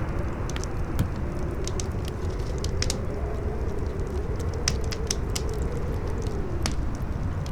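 Campfire crackling with scattered sharp pops, over a strong wind that howls in a wavering tone, slowly rising and falling.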